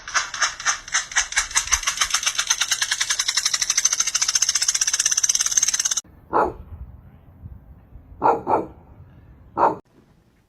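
A fast, even rattle of about ten clicks a second that cuts off suddenly after about six seconds, followed by a dog barking four times, with two of the barks close together.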